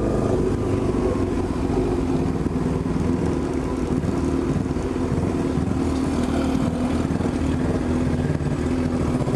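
Honda CB1000's inline-four engine running steadily through a loud exhaust.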